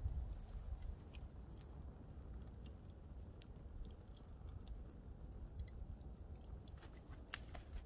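Campfire crackling: scattered sharp pops and snaps of burning wood, more of them near the end, over a faint low rumble.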